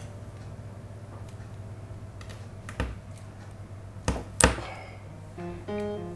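A few sharp knocks and clicks from small objects being handled, the loudest about four and a half seconds in, over a steady low hum. Music notes come in near the end.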